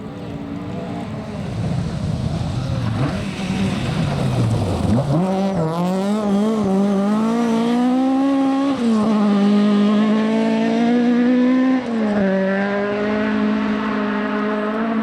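Rally car engine accelerating hard through the gears. After a rough rumble the note climbs steeply, rises again, and drops sharply at two upshifts, about 9 and 12 seconds in.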